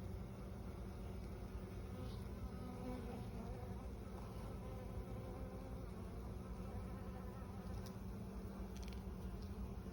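Honeybees buzzing in a steady, dense hum, as of a colony at the hive.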